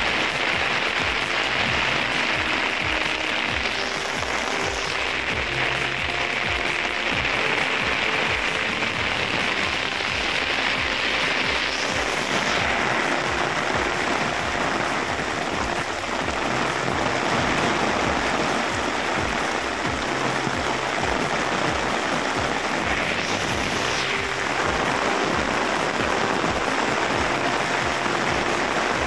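Heavy monsoon rain pouring steadily, an even dense hiss of rain on rooftops and pavement, with background music underneath. Three brief higher swishes rise out of the hiss.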